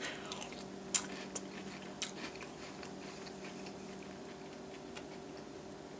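A person chewing a mouthful of oatmeal creme pie cereal in milk, with a few sharp clicks about one and two seconds in, then quieter chewing. A faint steady hum runs underneath.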